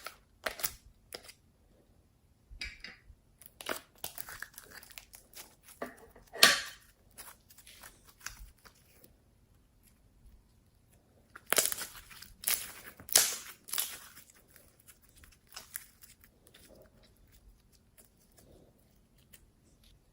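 Slime being mixed and worked, crackling and popping in irregular bursts of sharp, crinkly clicks with quieter pauses between.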